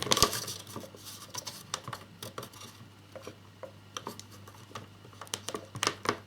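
Small scale-model parts clicking and tapping as they are handled and pushed into place, irregular light clicks with a louder clatter at the start.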